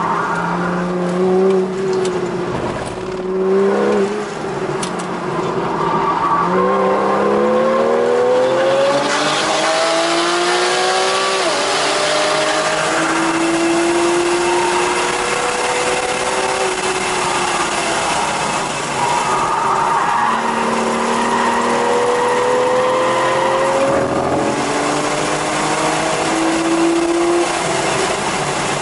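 Porsche 911 GTS (991.1) 3.8-litre flat-six heard from inside the car under hard acceleration on track: the engine note climbs in pitch and drops sharply at gear changes about 11 and 24 seconds in. Wind noise rises as the speed builds.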